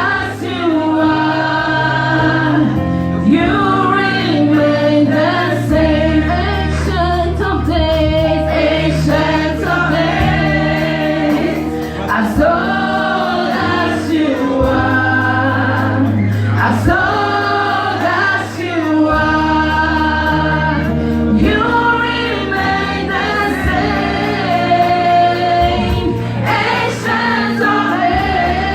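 Gospel choir of mixed voices singing a Twi-language song in harmony, phrase after phrase, over instrumental backing with held bass notes.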